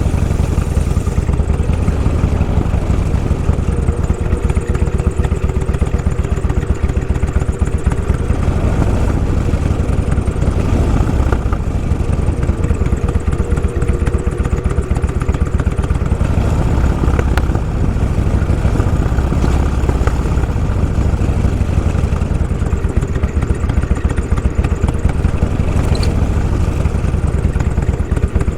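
Motorcycle engine running steadily under way, a continuous low pulsing of its firing strokes with no let-up.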